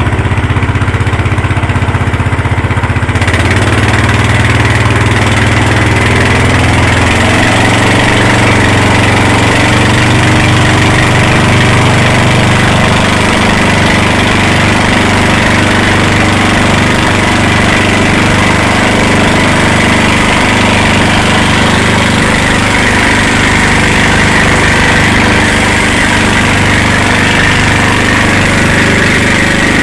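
Motorboat engine running steadily while towing, its pitch shifting a couple of times. From about three seconds in, a loud rushing noise of wind and water joins it.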